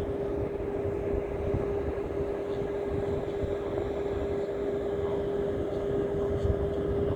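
A steady hum holding one pitch throughout, over an uneven low rumble.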